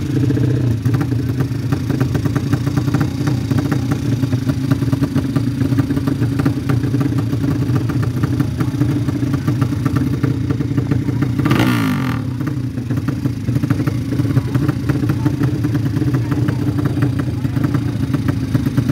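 Motorcycle engines running loudly and roughly, with one swelling and falling quickly in pitch about twelve seconds in, as a bike passes or revs down.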